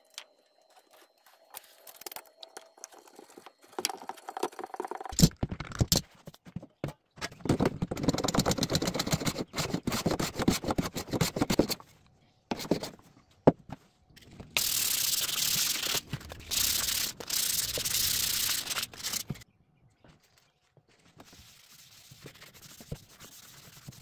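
Wood being worked by hand: a few sharp knocks, then a stretch of rapid scraping strokes, and later several long hissing strokes like sandpaper or a rasp drawn over wood.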